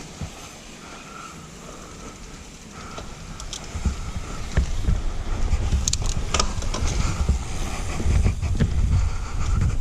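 Wind buffeting an action camera's microphone as a mountain bike descends, swelling into a heavy rumble about four seconds in as speed builds. Scattered sharp knocks and rattles come from the bike over rough trail.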